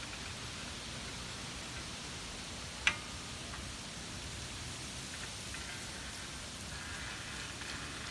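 Wind rushing steadily through trees and leaves ahead of a windstorm, with one sharp click about three seconds in.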